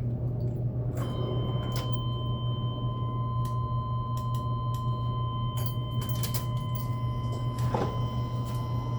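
A steady high electronic-sounding tone comes on about a second in and holds, over a constant low hum, with scattered sharp clicks and knocks.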